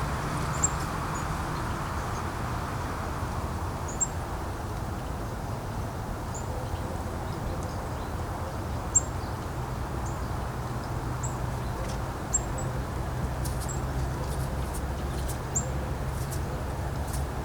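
Wind blowing steadily over a low hum, with short, high bird chirps every second or two. A few faint clicks come near the end.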